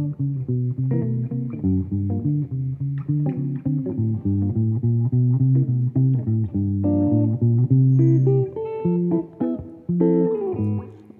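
Solo jazz guitar playing chords over moving bass notes, an instrumental introduction before the vocal enters.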